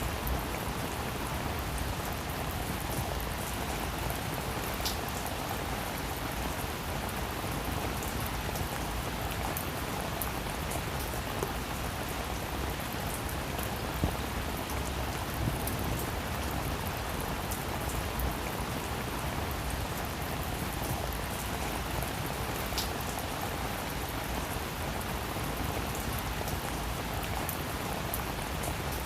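Heavy rain falling steadily, an even wash of noise with scattered individual drops ticking and splatting close by.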